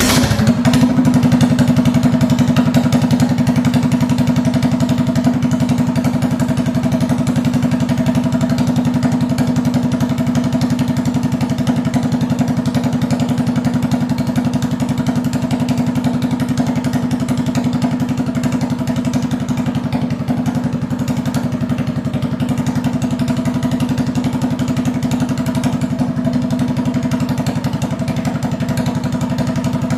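Small mini bike engine idling steadily, with an even, unchanging pitch. It cuts in suddenly at the start.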